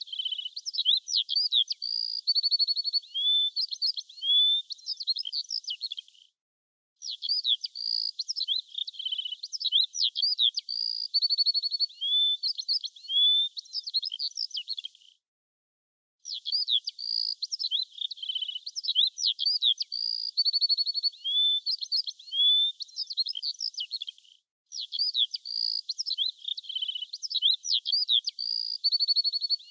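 Birds chirping and trilling in a busy, high-pitched chorus that plays as a repeating loop: the same stretch of song comes round about every nine seconds, broken by brief silent gaps, one of nearly a second about a third of the way in and a longer one of about a second near the middle.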